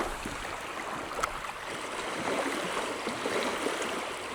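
Small waves lapping at a lake shore under steady wind noise, with a single short click about a second in.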